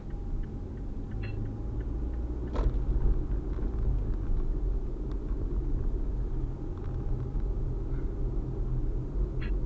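Steady low rumble of a car driving on the road, with a short sharp click about two and a half seconds in.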